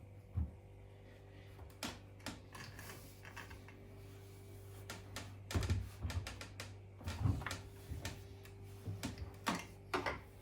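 Scattered knocks, clicks and rustles of laundry being handled and pushed into the drum of a Hoover Link front-loading washing machine, with a steady low hum underneath.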